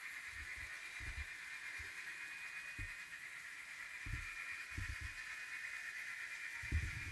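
Model train running on a layout: a faint steady whine with occasional soft low knocks.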